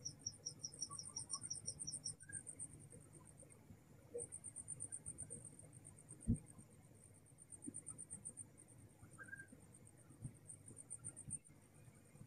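Crickets chirping in rapid, evenly pulsed trills at night, two at different pitches until about two seconds in, then one high-pitched one with short pauses. Under a faint low hum, a single low thump about six seconds in.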